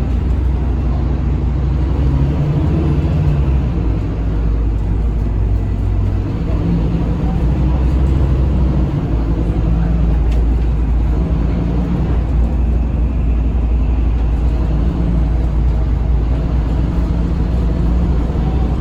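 Scania K310UB bus's DC9 five-cylinder diesel engine heard from on board while the bus is under way, a continuous low drone whose pitch shifts a little now and then, with road noise underneath.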